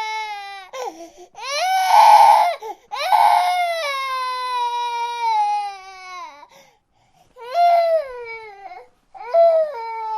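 Infant crying: a series of drawn-out wails, each sliding down in pitch, with short catches of breath between them and a brief pause about two-thirds of the way through.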